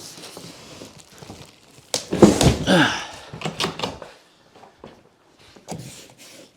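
Cardboard shipping box and packaging being handled while an e-bike is wrestled out of it: low rustling, then a knock about two seconds in, followed by a second or so of loud scraping, then scattered small clicks.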